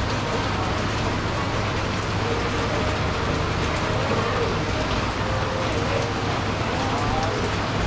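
Steady rain hiss with a low, steady rumble underneath.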